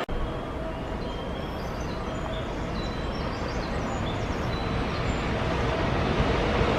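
Freight train rolling past, a steady rumble and rattle of wagons on the rails that slowly grows louder, with faint short high-pitched wheel squeals.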